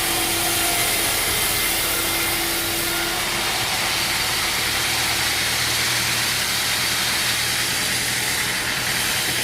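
Sawmill machinery running steadily: an engine or motor hum under a broad hiss. A mid-pitched tone drops out about three seconds in, and a lower hum grows stronger shortly after.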